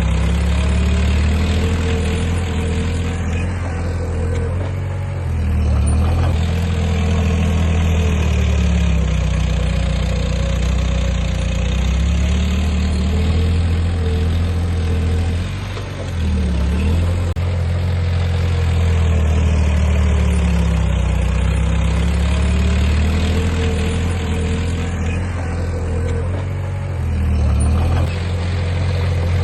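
The heavy diesel engine of an earthmoving machine runs steadily. Its pitch sags and recovers every several seconds as it takes and sheds load.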